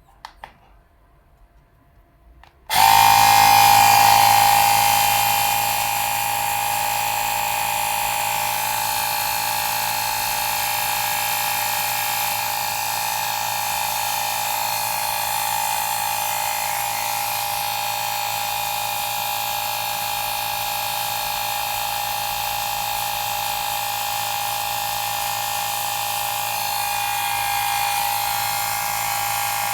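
A few faint clicks, then a Woowind AP2-P portable electric tyre pump starts abruptly about three seconds in and runs with a steady high-pitched motor whine, loudest for its first couple of seconds before settling.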